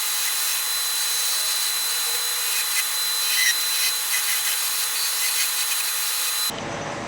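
Wood lathe spinning a poplar spindle while a turning tool cuts it, giving a steady hiss of shaving wood over a constant high whine. It stops abruptly near the end.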